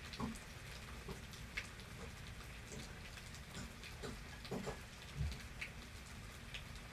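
Steady rain from a thunderstorm, with scattered individual drops striking nearby surfaces in irregular ticks and plops.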